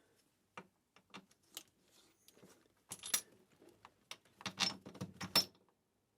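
Light metallic clinks and taps of tools and metal parts being handled, an uneven run of short strikes. They cluster about three seconds in and again, more thickly, in the second before the end.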